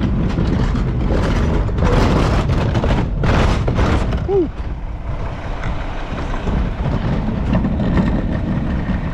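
Garbage truck's engine running with a steady low rumble, with loud rushing noise over the first four seconds.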